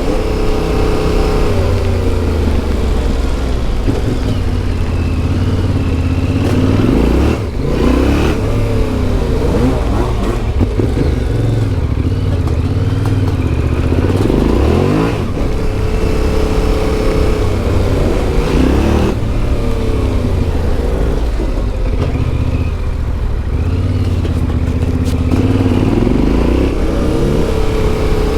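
Yamaha Ténéré 700's CP2 parallel-twin engine through an Akrapovic exhaust, heard from the bike as it is ridden. The engine note rises and falls again and again with throttle and gear changes, with a brief sharp drop about seven seconds in.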